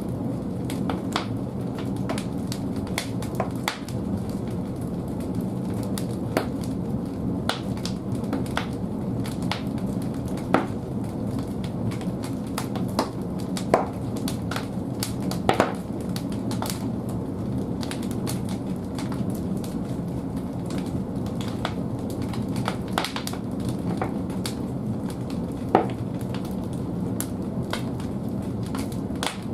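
Large firewood burning in the firebox of a wood-fired bathhouse boiler: a steady low rushing of the fire with irregular crackles and a few sharp pops.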